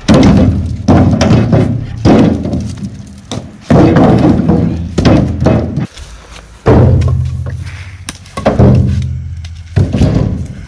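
Splitting maul striking black walnut rounds: a heavy thunk about every second or so, at uneven spacing, each dying away quickly.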